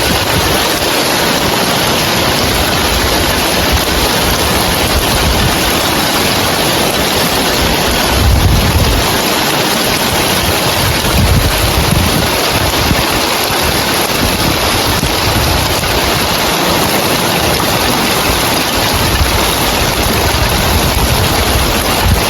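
Heavy rain on roof tiles: a dense, steady hiss, with low rumbles of wind coming and going underneath, the strongest about eight seconds in.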